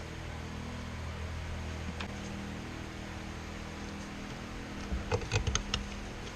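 A steady low mechanical hum with several steady tones, whose pitch pattern shifts about two seconds in, followed near the end by a quick run of clicks and light clatter.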